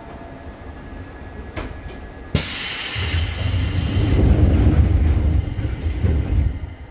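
Seibu 2000 series electric train running, heard from inside the car, with a sudden loud rush of hissing noise a little over two seconds in and a heavy low rumble that dies away near the end.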